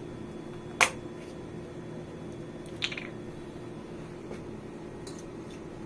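Kitchen sounds over a steady low hum: one sharp click about a second in and a lighter tick near three seconds.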